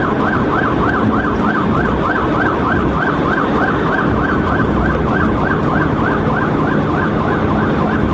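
Police cruiser siren on a fast yelp, its pitch rising and falling about four times a second, over the steady engine and road noise of a pursuit at highway speed.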